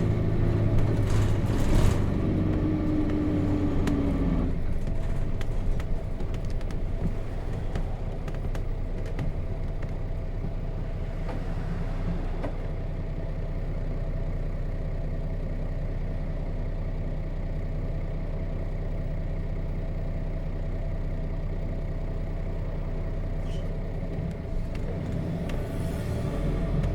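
Nissan Diesel KC-RM211GSN bus with its FE6 diesel engine, on the move. A whine falls in pitch over the first four or five seconds while the engine is at its loudest, then the engine settles into a steadier, quieter running sound.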